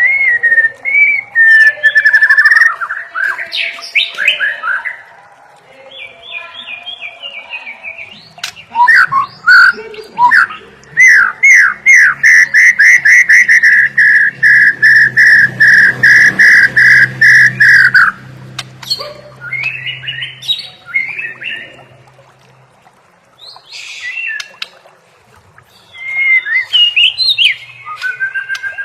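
White-rumped shama (murai batu) singing varied whistled phrases. In the middle comes a long run of rapid repeated notes, about four a second, over a faint low hum.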